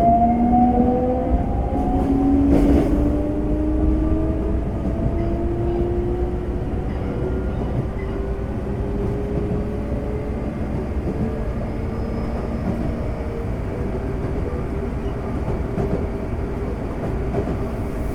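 Semboku Rapid Railway 5000 series electric train accelerating, heard inside the car: its Hitachi GTO VVVF inverter sings as several tones that climb in pitch, fading out after about twelve seconds, over the steady rumble of the train running on the rails.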